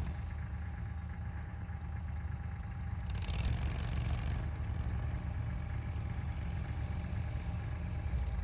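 A small vehicle engine running steadily at idle, a low rumble, with a brief hiss about three seconds in.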